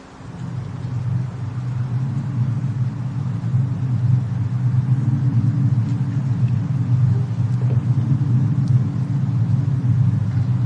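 Low, steady rumble of a winter-storm and fireplace ambience mix, fading in over the first second or so, with a few faint crackles of the fire.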